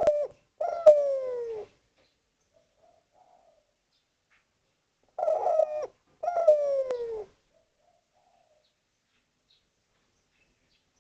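Spotted dove (derkuku) cooing twice, about five seconds apart. Each call is a short coo followed by a longer coo that falls in pitch.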